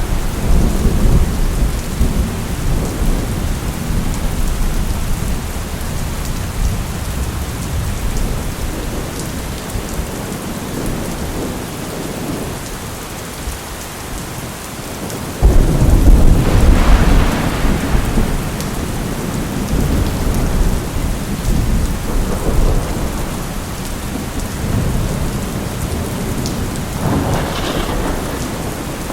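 Steady heavy rain with thunder. A rumble fades away over the first few seconds, a sudden loud thunderclap breaks about halfway and rolls on for a few seconds, and a shorter rumble comes near the end.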